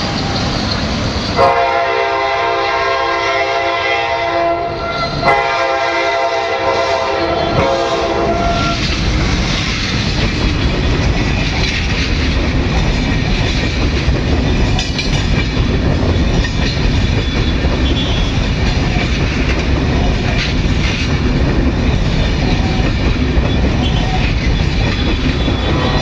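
A diesel-hauled passenger train with Russian-built coaches sounds its multi-tone horn in two long blasts, each about three and a half seconds, with a brief break between, as it approaches the level crossing. It then passes close by, its wheels clattering steadily over the rail joints.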